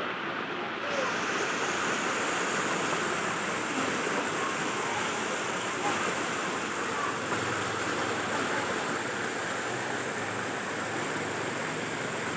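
Steady rushing of water, an even noise that fills out slightly about a second in.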